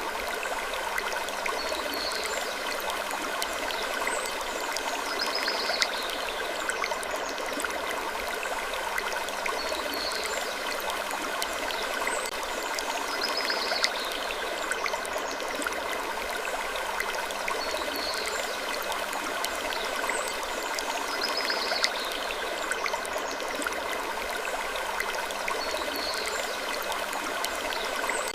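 Ambient sleep track of steady, stream-like rushing noise with short, faint wooden creaks every couple of seconds. The pattern repeats about every eight seconds, as a loop.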